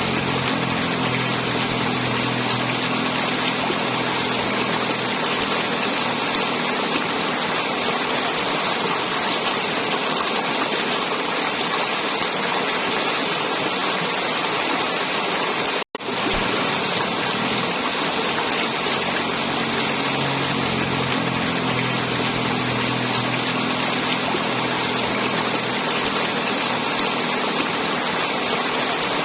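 River water flowing and gurgling in a steady, unbroken rush; the sound cuts out for an instant about halfway through, then resumes unchanged.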